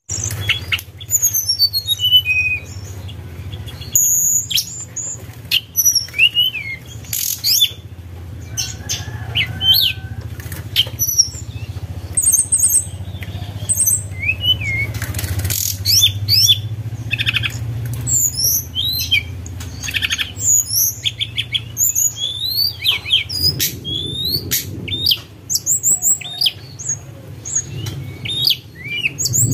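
Tledekan gunung songbird singing a long run of rapid, high whistled chirps and short trills, note after note with little pause, over a steady low hum.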